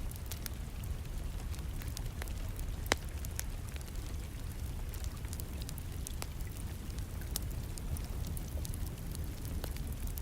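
Wood fire crackling, with scattered sharp pops and one louder pop about three seconds in, over a steady background of rain.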